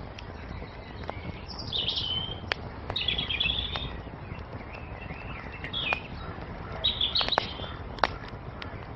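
Wood fire crackling, with a handful of sharp pops over a steady low rush, while small songbirds sing short chirping phrases several times.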